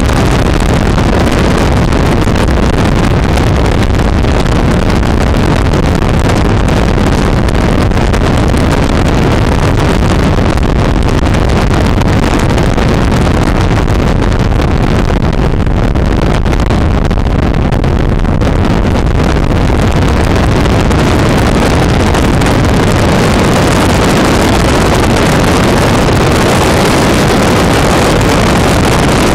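Loud, steady wind noise on the microphone of a camera riding on a moving motorbike, mixed with the bike's engine and road noise.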